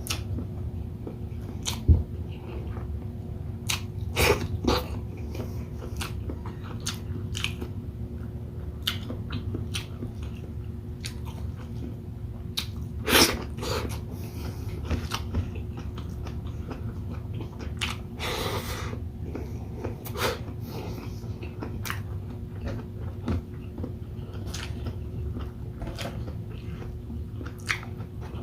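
Close-miked chewing and biting of ginataang hipon (shrimp in coconut milk) with rice: many small wet mouth clicks, with a few louder bites about 2, 4, 13 and 18 seconds in. A steady low hum runs underneath.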